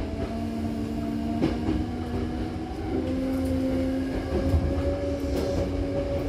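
Hankyu Kyoto Line electric train heard from inside the car while running between stations: a steady rumble of wheels on rail, with a few steady motor hum tones that shift in pitch about halfway through. A sharp click about a second and a half in, as a wheel crosses a rail joint.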